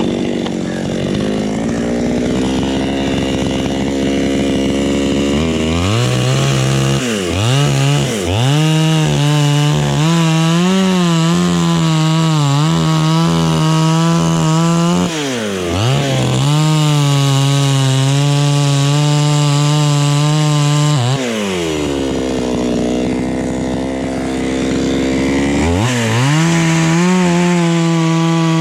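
Chainsaw idling, then revved up and held at high speed cutting through jackfruit wood, its pitch wavering under load. It drops back to idle twice, and is revved up again near the end.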